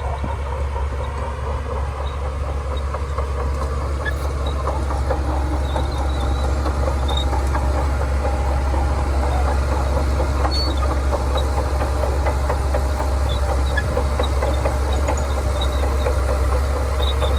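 Shantui crawler bulldozer at work: its diesel engine runs steadily under a continuous metallic clatter, growing a little louder in the first few seconds.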